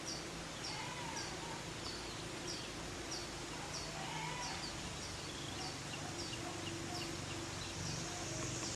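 Birdsong: one bird repeats a short, high, falling chirp every half second or so, while other birds call more softly in lower warbles over a steady low hum.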